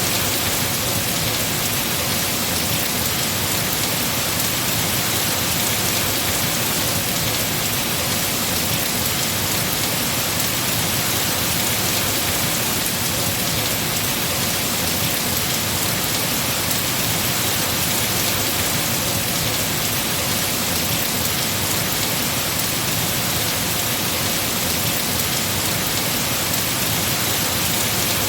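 Heavy rain falling on trees, a steady, even hiss with no breaks.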